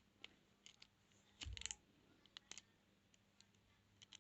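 Faint clicks and scrapes of metal lock picks working the pins of a transparent practice padlock, with a small knock about one and a half seconds in.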